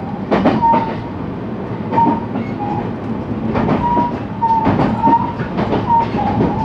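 Interior running sound of a JR West 223 series electric train, heard from the KuMoHa motor car, with the wheels clacking over rail joints several times at irregular intervals over a steady rumble. Short high-pitched tones come and go throughout.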